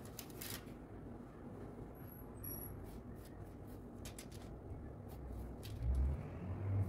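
Faint handling sounds: scattered light clicks and rustles over a low steady hum, with a couple of low thumps near the end.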